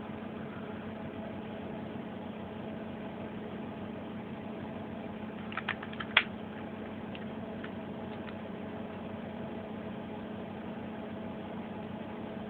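Dehumidifier converted to an air conditioner, its compressor and fan running with a steady hum. A few sharp clicks come about six seconds in.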